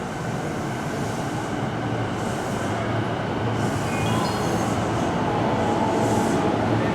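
Keihin-Tohoku Line electric commuter train pulling into the platform, its rumble growing steadily louder, with several short hisses and brief high squeals from the brakes about 3 to 4 seconds in.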